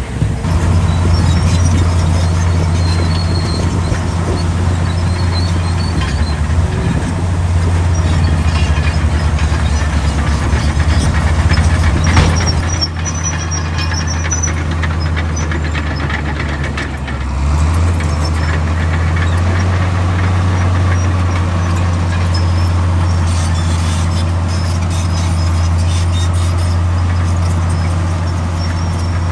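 Heavy diesel earthmoving machinery running close by: a loud, steady engine drone with one sharp knock about twelve seconds in, and the engine note dropping and then settling again a few seconds later.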